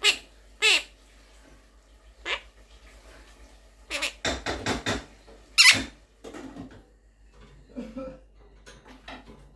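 Quaker parrot (monk parakeet) giving a series of short, sharp squawks and chattering calls, with a quick run of them about four seconds in and the loudest call just after.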